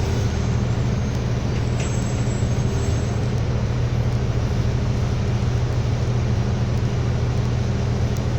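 City bus cabin noise: a steady low engine hum under road and interior rumble, heard from inside the bus.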